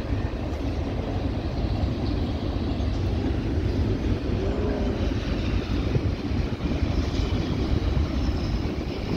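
Freight train of tank cars rolling past, a steady rumble of steel wheels on rail.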